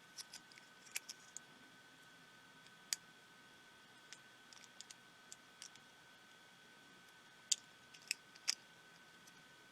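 Scattered sharp light clicks and taps of small pico-projector parts and tools being handled on a bench, with a few louder ones close together near the end, over a faint steady high-pitched tone.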